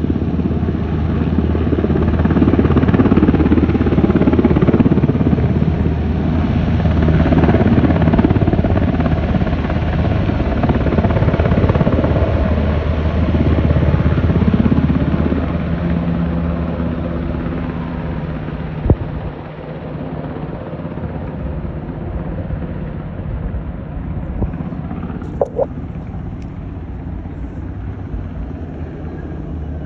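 Firefighting helicopter with a water bucket, its rotor and engine running loud and steady, then gradually fading as it flies away from about halfway through. A couple of short clicks come near the end.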